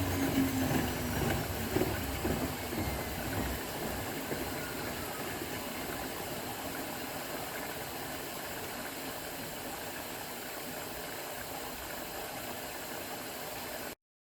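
AEG Öko-Lavamat 693 washing machine winding down after a spin. The drum rumble fades over the first few seconds while the motor's whine falls in pitch, leaving a steady hiss that cuts off suddenly near the end.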